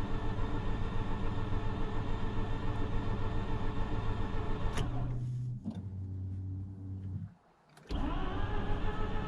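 A 2004 Mazda RX-8's 13B Renesis rotary engine being cranked over by its starter in rapid, even pulses without catching. The cranking stops about five seconds in, leaving a steady low hum for about two seconds and a moment of near silence, then resumes about eight seconds in.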